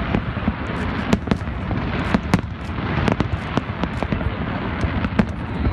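Aerial fireworks bursting: a rapid, irregular string of sharp bangs and crackling pops over a steady background din.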